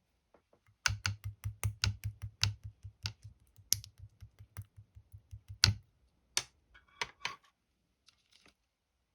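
Clear slime being pressed and poked by hand, making a quick, even run of sticky clicks with soft thuds, about four a second, then a few separate clicks and a short crackle near the end.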